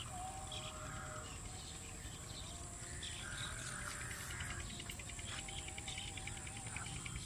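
A steady, high-pitched insect drone, such as crickets or cicadas, with scattered bird chirps and wavering calls.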